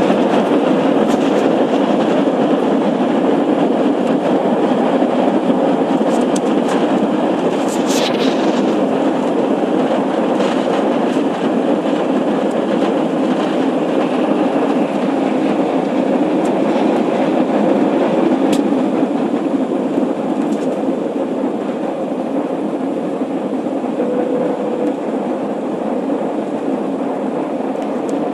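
Airbus A320 cabin noise during take-off: the jet engines at take-off power make a steady loud rushing noise, mixed with rumble from the runway. A few sharp knocks come from the wheels, the strongest about eight seconds in, and the noise eases slightly in the last few seconds.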